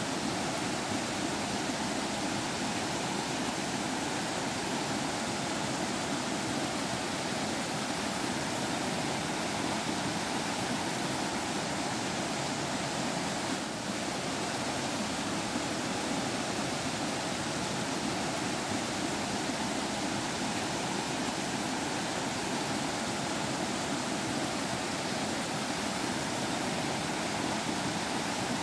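Steady rushing and trickling of a forest stream flowing over rocks, with one brief dip in level about halfway through.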